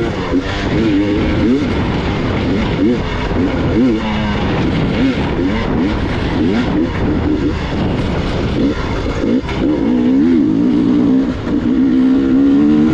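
Gas Gas EX 300 two-stroke enduro motorcycle engine revving up and down with constant throttle changes while riding a rough trail, holding higher, steadier revs for the last few seconds.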